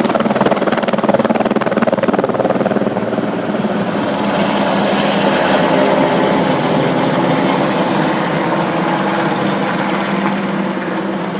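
Helicopter taking off, its rotor beating rapidly and loud. About three seconds in the sound turns smoother, then slowly grows fainter near the end.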